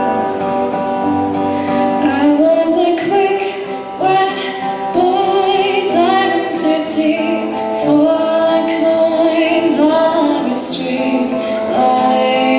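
Acoustic guitar playing a song, with a voice starting to sing over it about two seconds in.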